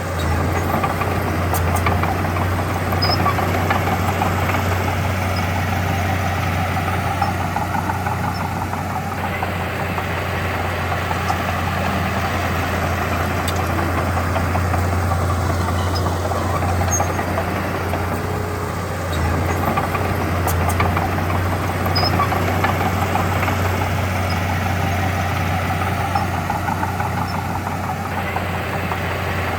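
Heavy diesel engine of earthmoving machinery running steadily with a strong low hum, its note swelling and easing a few times as it works under load.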